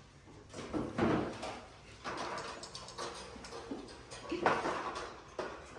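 Scattered light knocks and rustling from a pet bird cage being handled.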